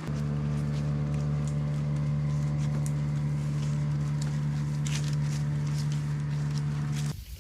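A steady low mechanical hum, like a motor or engine running, with faint scattered ticks above it; it cuts off suddenly about seven seconds in.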